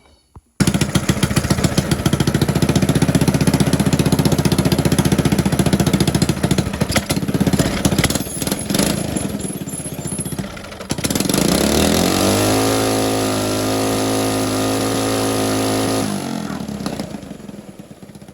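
Coleman mini bike's small single-cylinder engine catching about half a second in and running fast and rough, then revving up and held at a steady higher speed for a few seconds before dropping back toward idle near the end. It is a test run after a carburetor main-jet change.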